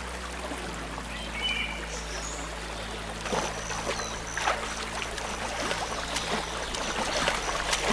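Marsh ambience: water trickling and lapping, with a few faint bird chirps.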